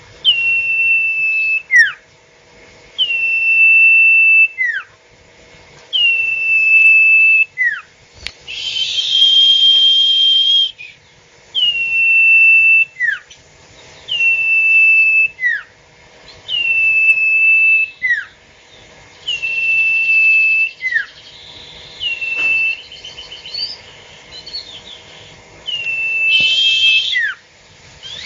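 A bird, the Indonesian 'sirtu', calling over and over: about ten calls, each a long, high, steady whistled note that ends in a quick downward slur, repeated roughly every two and a half seconds. A hiss sounds under two of the calls.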